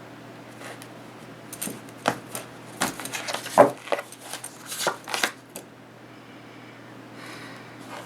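Tarot cards being shuffled and handled: a run of quick taps and riffles for about four seconds, starting about a second and a half in, with a fainter rustle near the end, over a steady low hum.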